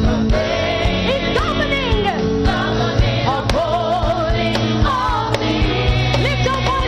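Church choir singing a gospel song with a live band: sung melody over steady bass notes and a regular drum beat.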